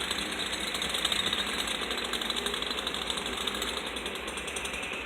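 Demolition hammer pounding in a rapid, steady rhythm of blows, as a bridge is being broken up.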